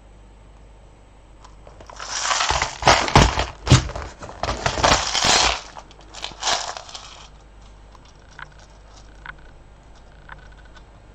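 Loose beads being handled and sorted: a few seconds of rustling and clattering with sharp clicks, then a few faint separate clicks near the end.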